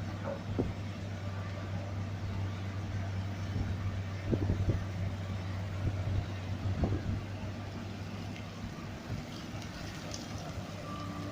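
Dump truck's diesel engine running with a steady low hum, with a few short knocks and rattles.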